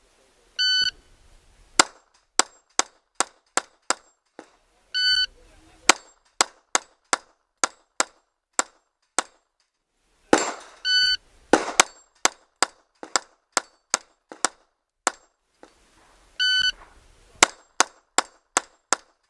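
Four strings of 9mm pistol shots from a Glock 26 subcompact, each begun by a half-second electronic shot-timer start beep. The shots come at about two to three a second, sharp cracks with no gaps longer than a second or so within each string.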